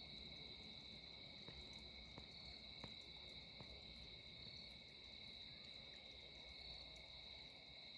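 Near silence with a faint, steady chorus of crickets trilling, and a few soft ticks in the first half.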